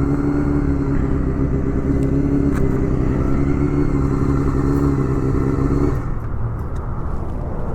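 Honda Hornet 250's inline-four idling steadily through an aftermarket Pretty Racing exhaust, with the bike standing still. About six seconds in the idle note drops away, leaving a lower rumble.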